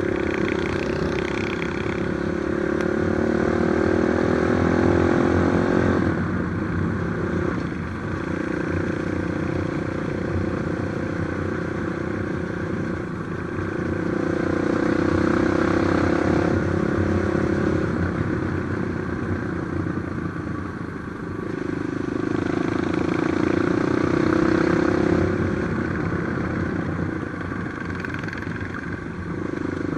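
Trail motorcycle engine running under way, its revs climbing in several stretches and easing off between them, with some rattling.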